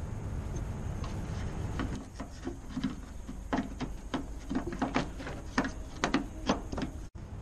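Irregular clicks and knocks from hand work on the van's door-handle parts, some in quick clusters, over a steady low rumble.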